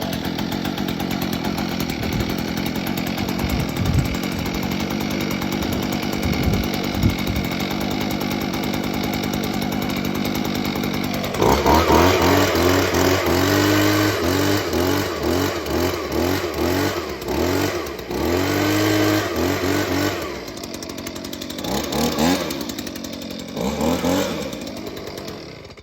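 Stihl BG 50 handheld leaf blower's two-stroke engine running steadily on half choke just after a cold start, then revved repeatedly from about eleven seconds in, the pitch rising and falling with each squeeze of the throttle. It settles lower and cuts off at the end.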